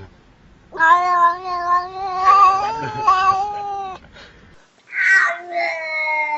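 A cat yowling: one long drawn-out wail of about three seconds, then a second wail a second later that falls slightly in pitch.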